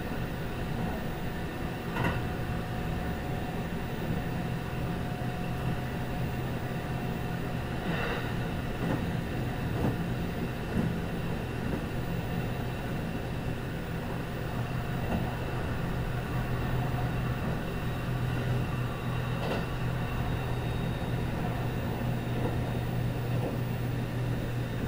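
Kintetsu 22000 series ACE limited express train running at steady speed, heard from the vestibule inside the car: a continuous rumble of wheels on rail with a steady low hum. A few sharp clacks from the track come through, at about 2, 8 and 20 seconds in.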